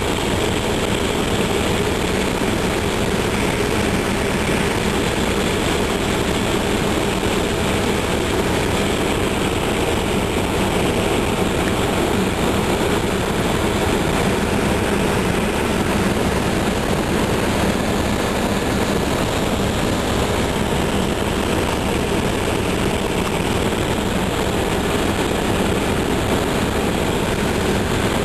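Helicopter in flight, heard from on board: steady, loud engine and rotor noise.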